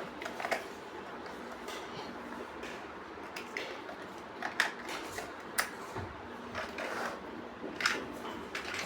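Plastic building bricks clicking and tapping as they are handled and pressed together, in irregular sharp clicks over a steady background hiss.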